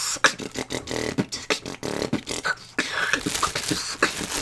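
Beatboxing: a fast run of mouth-made kick, snare and hi-hat clicks, with a short pitched vocal sound about a second in, performed by a beatboxer who has inhaled helium.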